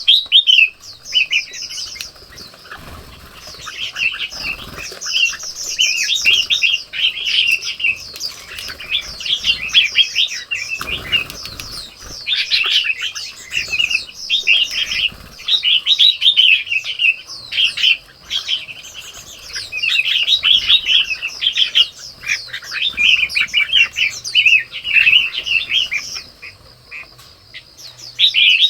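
Small songbirds chirping and twittering in quick, dense bursts, several calling at once, with short lulls between runs.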